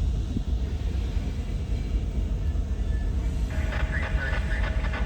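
Low, steady rumble of a diesel freight train running. About three and a half seconds in, a higher, wavering sound joins it.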